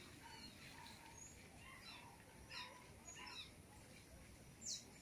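Faint forest birds calling: several short, high chirps scattered through, and a louder falling note near the end.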